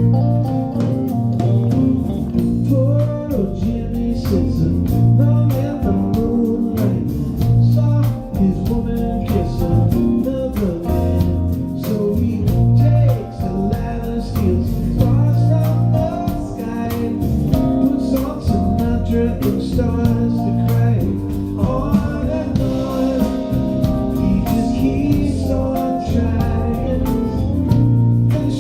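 A band playing a soft-rock song with a singer, guitar and a steady beat.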